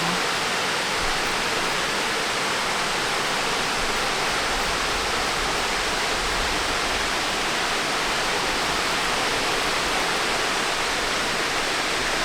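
Steady, unbroken rushing of a waterfall, the water falling continuously.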